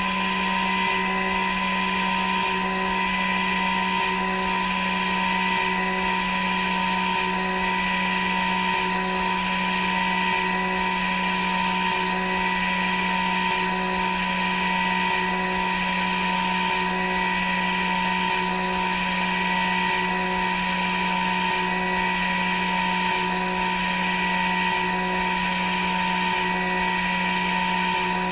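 CNC machine running steadily, its spindle motor giving a constant high whine with a faint pulse repeating about every second and a half.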